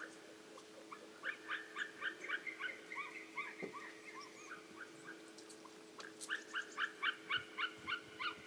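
A large bird calling in quick series of short, yelping notes, about four a second, in two bouts with a few scattered calls between them.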